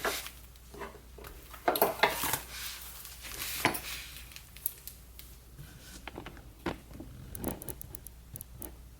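Hands unpacking a box of candles: rustling of paper and cardboard packaging with small knocks and clinks, loudest about two seconds in.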